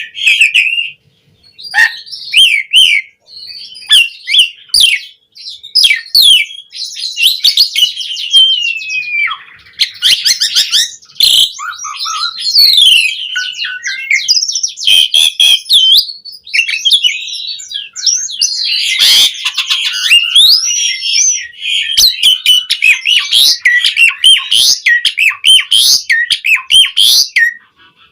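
Asian pied starling singing a long, varied song: rapid whistles, up-and-down glides, chatters and sharp clicking notes in quick succession, broken by a few short pauses.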